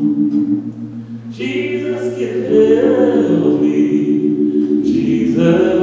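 A group of voices singing a gospel hymn in long held notes. One phrase dies away about a second in, and the next swells in shortly after.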